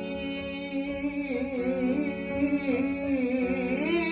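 Yemeni song: a singer draws out one long, wavering sung note over steady held instrumental accompaniment.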